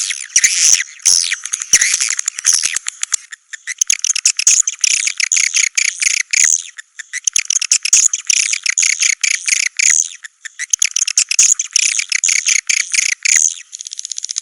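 Recorded calls of edible-nest swiftlets played as a swiftlet-house lure: dense, fast twittering chirps and clicks, turning to a drier rattle of clicks near the end.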